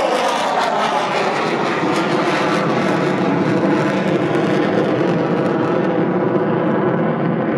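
Avro Vulcan XH558's four Rolls-Royce Olympus turbojets on a flypast: a loud, steady jet noise whose high hiss fades near the end as the bomber draws away.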